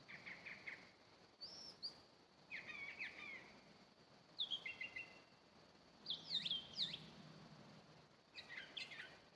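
A songbird singing from a treetop: a run of short, varied whistled phrases about a second apart, each made of quick rising and falling notes.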